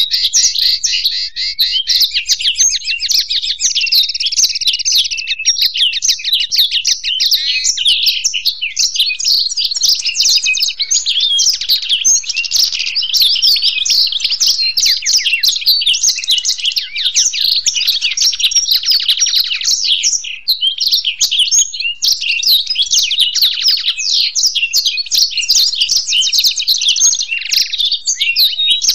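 Blackthroat (black-throated canary) and European goldfinch singing together without pause: a dense, continuous stream of high twittering and rapid trills.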